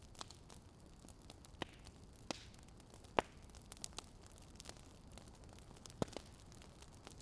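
Wood fire crackling: scattered sharp pops and snaps over a faint steady hiss, the loudest a little after three seconds in and again at about six seconds.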